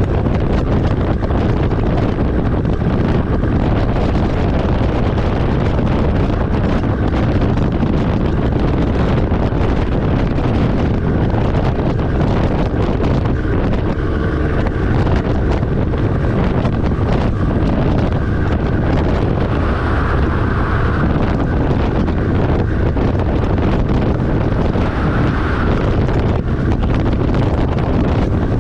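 Steady road and wind noise from a truck driving along, a constant low rumble with wind buffeting the microphone.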